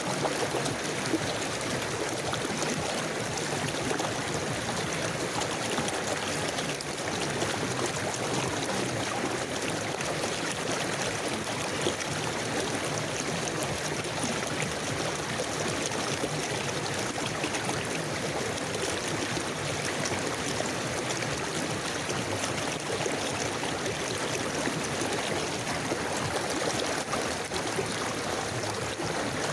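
River water flowing and burbling steadily over stones.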